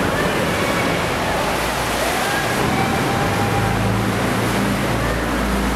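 Sightseeing boat's engine running under a steady rush of water. The low engine hum grows stronger about halfway through.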